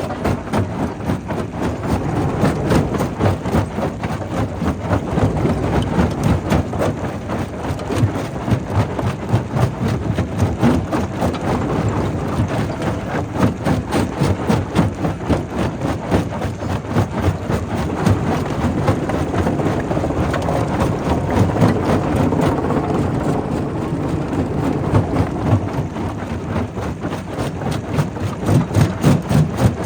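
Quarry primary rock crusher running, with a dense, continuous clatter of rock being broken and tumbling through the machine over a steady mechanical drone.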